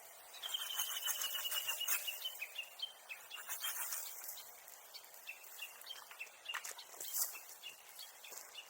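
Japanese bush warbler (uguisu) calling: a long whistled note gliding slowly down, then a long run of short repeated notes. A few short rustling clicks sound alongside.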